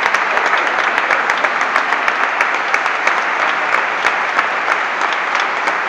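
Audience applauding steadily: dense, continuous clapping from many hands.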